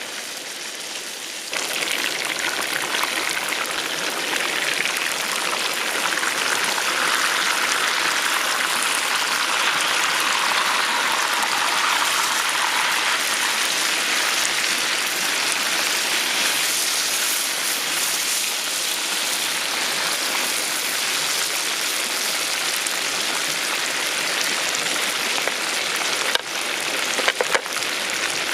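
Hot oil sizzling steadily as a whole chicken deep-fries, the sizzle jumping up sharply about a second and a half in. A few light clicks near the end.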